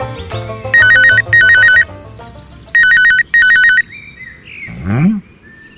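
Telephone ringtone: a rapidly warbling electronic ring sounding twice as two double rings, over fading background music. A short rising swoop follows near the end.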